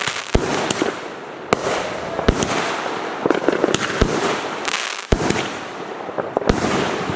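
Fireworks going off: a run of sharp bangs, irregularly spaced about a second apart, over continuous dense crackling.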